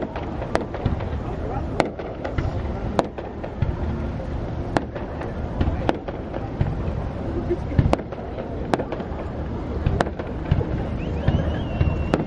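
Aerial fireworks bursting: sharp bangs at irregular intervals, roughly one a second, over a continuous low rumble of further bursts. Short rising whistles are heard near the end.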